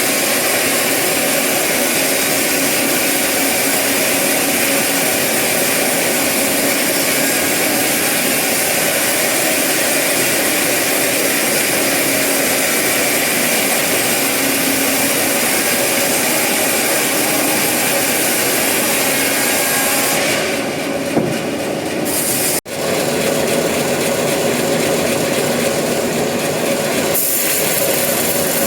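Sawmill saw cutting through eucalyptus wood with a loud, steady, dense hiss. About twenty seconds in, the high hiss drops away for several seconds, broken by one sudden brief gap. The full hissing cut returns near the end.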